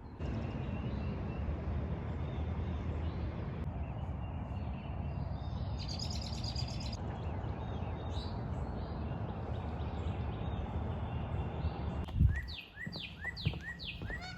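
Songbirds chirping and singing over a steady low outdoor rumble, with one brighter song phrase about halfway through. Near the end, after a sudden change in the background, a bird gives a quick run of about five short sweeping notes, roughly four a second.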